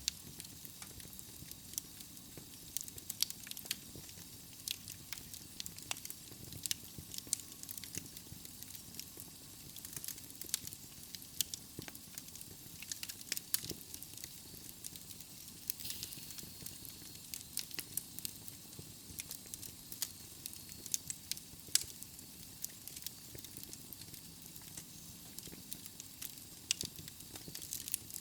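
Wood fire of burning logs in a fireplace crackling and popping, with irregular sharp snaps over a soft steady hiss.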